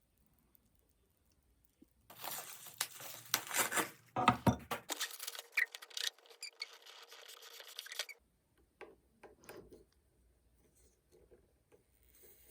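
Rustling and crackling of something being handled, with many sharp clicks, starting about two seconds in and stopping suddenly about six seconds later; a few faint clicks follow.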